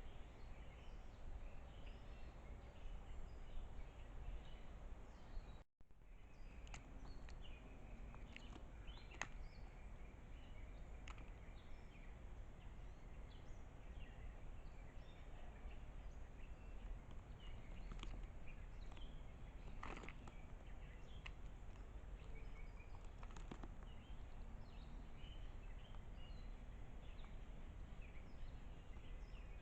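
Faint outdoor background hiss and hum with scattered short, distant bird chirps, and a few sharp clicks spread through it. The sound drops out briefly about a fifth of the way in.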